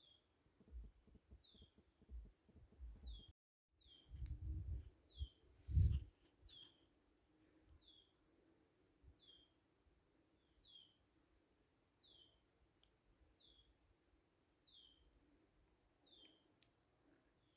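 A bird calling over and over, a short high chirp alternating with a falling note, about three notes every two seconds. In the first six seconds, low rumbling bursts are the loudest sound, peaking just before six seconds, with a brief dropout to silence between.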